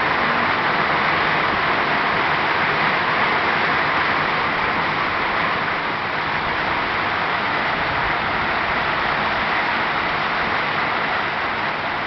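Heavy rain falling: a steady, even hiss of rain with no breaks.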